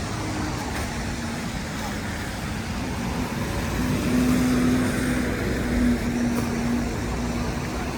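Street traffic noise with vehicles driving past; one passes close with a steady engine hum that grows louder about four seconds in and fades near the end.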